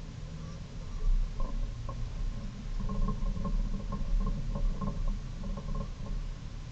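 Hyundai Avante race car's engine heard inside the cabin, running at low revs around 2,000 rpm as the car pulls away slowly through first and second gear: a steady low drone with irregular light clicks and rattles over it from about a second and a half in.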